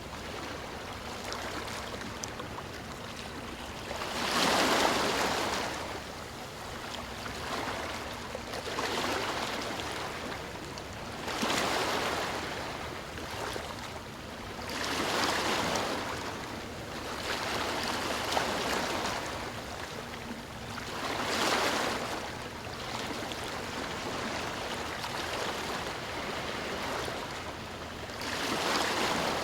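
Sea waves surging in, a steady hiss that swells and fades every few seconds, with the loudest surge about four seconds in.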